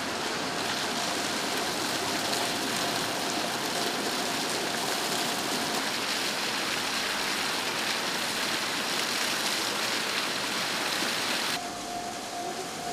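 Park fountain water splashing in a steady, even rush. It cuts off abruptly near the end to a quieter background with a faint steady hum.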